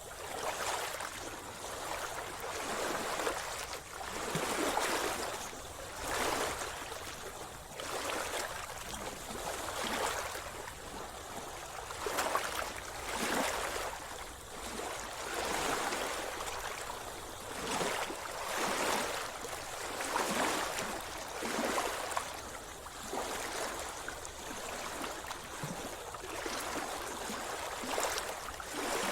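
Sea water splashing and lapping close by in repeated surges, about one every one and a half to two seconds.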